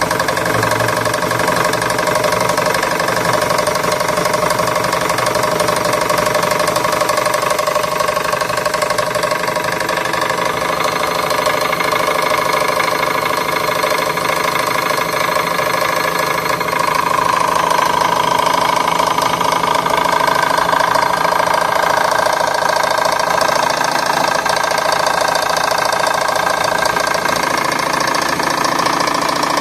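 Elgin electric sewing machine starting up and running steadily at speed with a fast, rattling knock, an annoying noise the owner puts down to play in a shaft.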